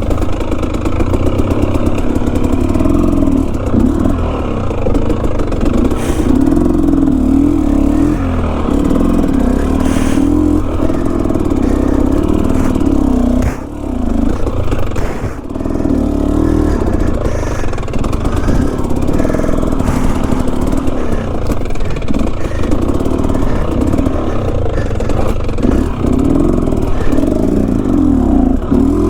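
Enduro dirt bike engine ridden on a steep technical trail, the throttle opened and closed constantly so its pitch rises and falls. The engine eases off briefly about halfway through, and there are occasional knocks.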